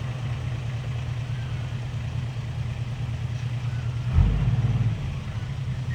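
Truck engine idling steadily. About four seconds in it briefly runs louder and a little higher, like a short rev, then settles back to idle.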